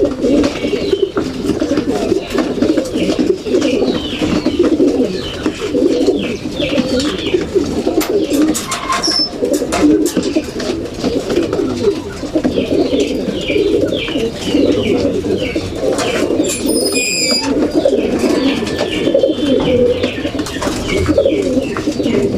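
A flock of racing pigeons cooing continuously, many birds at once, with short higher chirps over the cooing.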